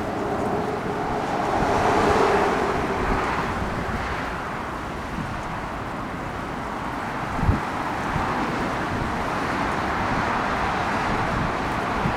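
Wind buffeting the microphone over a steady outdoor rush of noise. The noise swells about two seconds in, and a short low wind thump comes a little past halfway.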